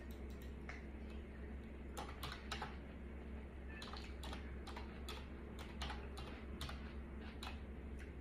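Faint close-up chewing of a sub sandwich: soft irregular mouth clicks and crunches, about two or three a second, over a low steady hum.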